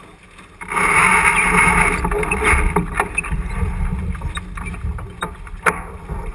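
Water rushing past the hull of a J80 sailboat under way, with wind rumbling on the microphone; the noise swells suddenly under a second in, then eases to a low rumble broken by a few sharp knocks.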